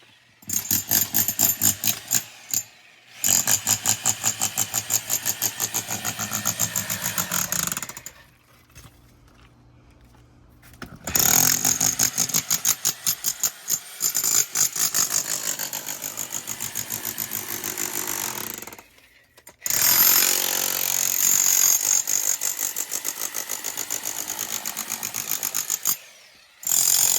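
Power demolition hammer chipping away at a wall, rapid hammering in several long bursts with short pauses between.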